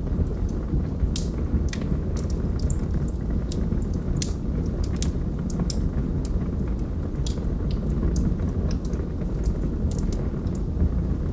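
Logs burning in a fireplace: a steady low rumble of the fire with frequent irregular crackles and pops.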